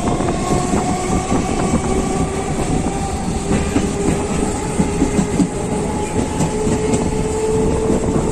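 Electric suburban local train (EMU) running between stations: a steady rumble of wheels on the track with the clickety-clack of rail joints, and a faint whine drifting in pitch.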